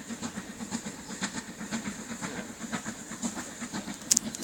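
A steam train's carriages rolling past, wheels clicking over the rail joints over a steady rumble. A sharper click comes near the end.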